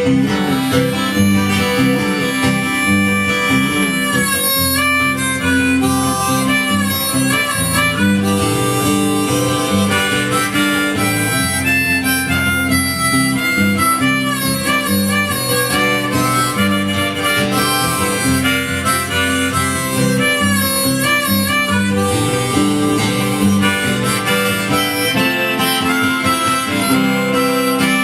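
Live instrumental break of a folk-country song: harmonica playing a bending melody over strummed acoustic guitar.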